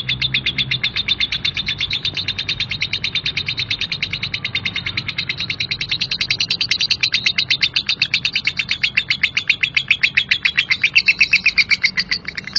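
Lovebird's long 'ngekek' chatter: one unbroken run of fast, even, harsh chirps that goes on for over ten seconds and cuts off suddenly at the end.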